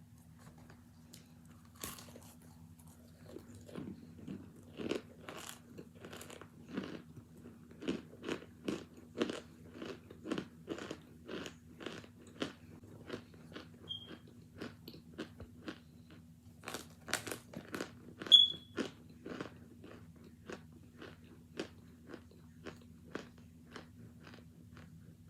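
Close crunching and chewing of hard homemade cornstarch chunks, about two crunches a second, with one much louder crunch about three-quarters of the way through. A faint steady low hum runs underneath.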